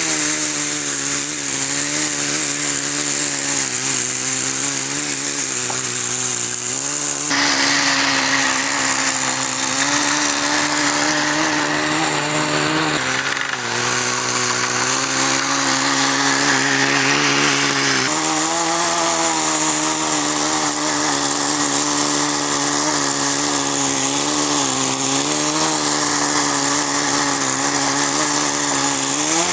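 Small nitro glow engine of a Kyosho Nitro Blizzard RC snowcat running steadily at low speed, its pitch wavering slightly as the slow-speed mixture is tuned. Its tone shifts abruptly about seven and eighteen seconds in.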